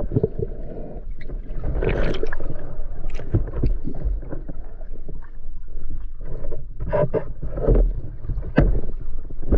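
Water sloshing and splashing in irregular surges, with gurgling and small knocks, heard close up as a swimmer moves through the water.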